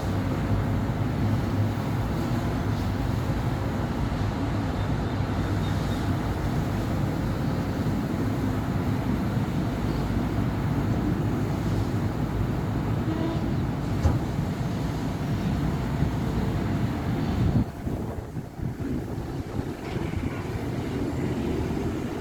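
Steady city-avenue traffic: cars and buses passing, a constant low rumble of engines and tyres. The traffic noise eases briefly about three-quarters of the way in, then picks up again.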